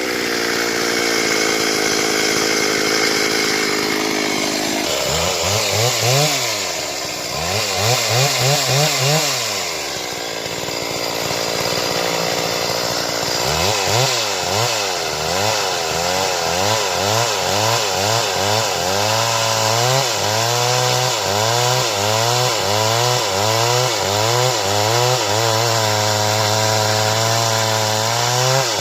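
Stihl chainsaw cutting wood. For the first few seconds it runs at a steady high pitch, then its engine note rises and falls over and over as the throttle and cutting load change.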